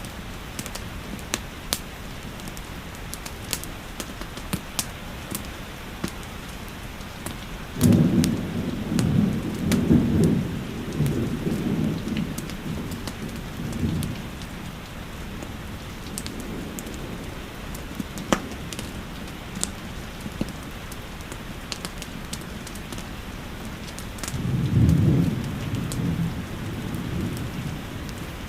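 Steady rain with scattered sharp crackles from a fireplace, and two low rolls of thunder: a longer one starting about 8 seconds in, and a shorter one near the end.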